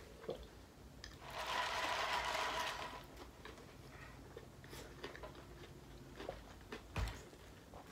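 Close-up chewing and small mouth clicks of people eating fast food, with a short hiss about a second in and a single thump near the end.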